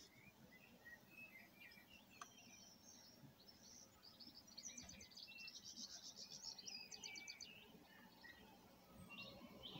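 Faint songbird singing: quick high chirps and rapid trills that start about two seconds in, grow busier in the middle, and fade out near the end.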